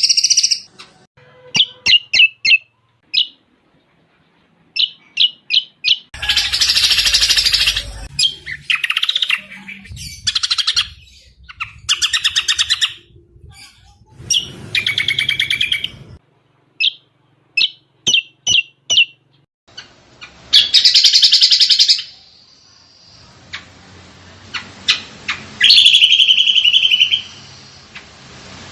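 Cucak combok singing a fast, varied song: runs of short, sharp, high chirps alternating with longer rapid trilling phrases of a second or two, with brief pauses between.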